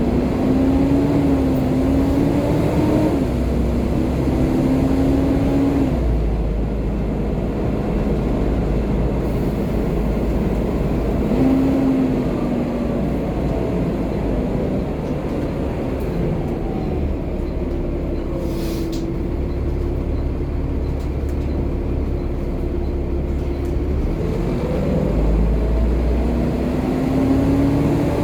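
Volvo B7TL double-decker bus's diesel engine and drivetrain running on the move, with a low rumble and a whine that rises with speed, drops at gear changes and climbs again. There is a short hiss about two-thirds of the way through.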